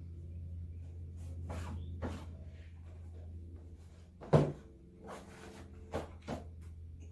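Several light knocks and clicks over a steady low hum, with one sharp, louder knock about four seconds in.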